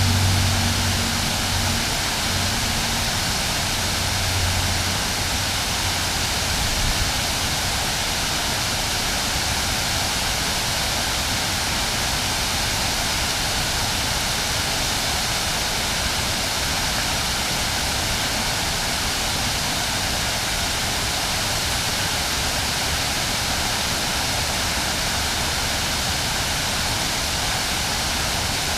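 Water of the Stroudwater River pouring over the falls: a steady, even rush. A low hum fades away over the first few seconds.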